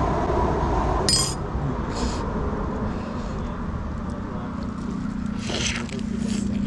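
Eating utensils scraping and clinking against a bowl of beef noodle soup, in a few short separate strokes, with a steady low hum coming in about halfway through.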